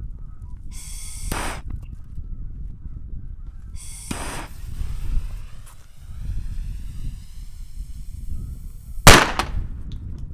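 Small fireworks going off: two short hissing fizzes a few seconds apart, then a single sharp bang near the end, the loudest sound. Wind rumbles on the microphone throughout.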